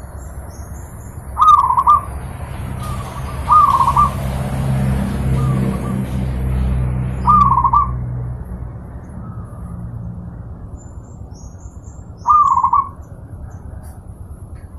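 Zebra dove (perkutut) cooing: four short, clear calls spaced a few seconds apart. A low rumble swells and fades in the first half, and faint high chirps of small birds come and go.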